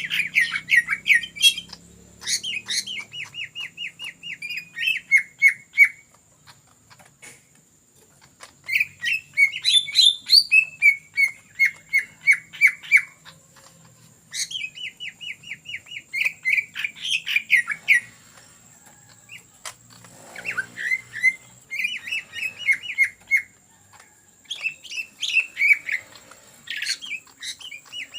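A green leafbird (cucak ijo) singing in fast, rattling phrases of rapidly repeated notes. There are about six phrases, each a few seconds long, with short pauses between. A faint steady high whine runs underneath.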